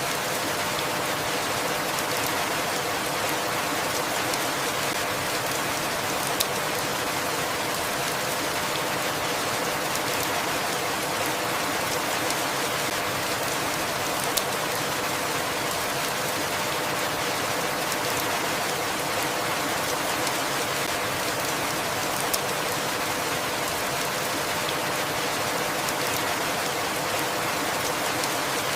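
Steady rainfall, an even hiss of falling rain, with a few sharper drop ticks, three of them standing out.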